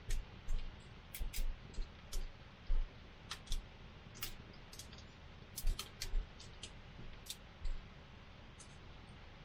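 Wood campfire crackling: irregular sharp pops and snaps, two or three a second, over a low steady hiss.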